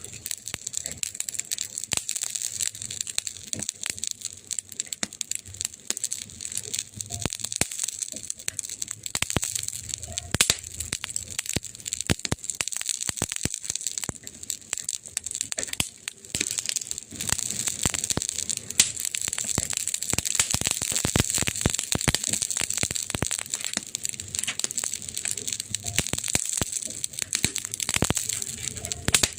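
Wood fire burning, with dense, irregular crackles and pops over a steady hiss.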